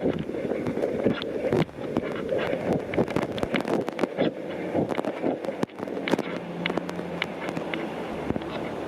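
Wind buffeting the microphone over city street traffic in light rain, with scattered clicks and knocks. A low steady hum comes in about six seconds in and fades near the end.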